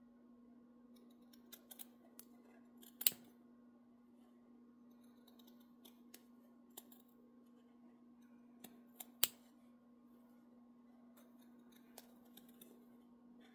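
Scissors snipping through fabric or thread in a few sharp cuts, the two loudest about three seconds and nine seconds in, with lighter clicks between, over a faint steady hum.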